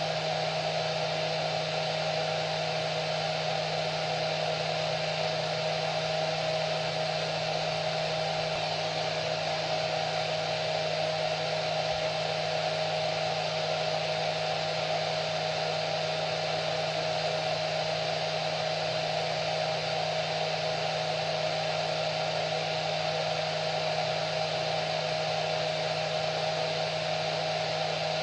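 Hair dryer running steadily: an even rush of blown air with a constant motor hum, no change in speed.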